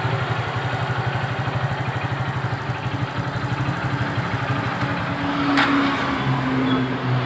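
Honda Supra X 125 FI's single-cylinder four-stroke engine idling with an even pulsing beat. A sharp click comes about five and a half seconds in, and the engine note rises a little after it.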